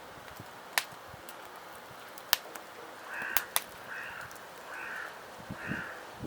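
A crow cawing about four times in a row, roughly one call a second, starting about halfway through. A few sharp, loud cracks or snaps come before and between the first calls.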